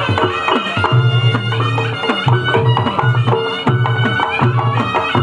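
Reog Ponorogo gamelan accompaniment: hand drums beaten in a quick rhythm, their strokes dropping in pitch, over steady pitched metal notes.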